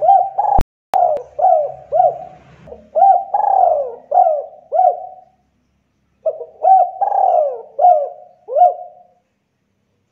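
Spotted dove (tekukur) cooing loudly, in two phrases of repeated rising-and-falling coos with a pause of about a second between them, about five seconds in. A sharp click sounds near the start.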